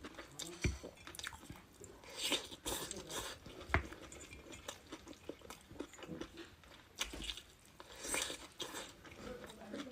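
Close-miked chewing of a rice-bowl meal of tomato and egg, garlic scapes stir-fried with pork, and mapo tofu: wet mouth sounds with scattered small clicks and brief crunches.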